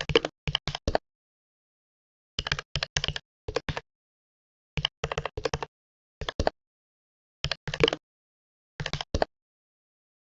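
Computer keyboard typing in short bursts of a few keystrokes each, with silent pauses of about a second between the bursts.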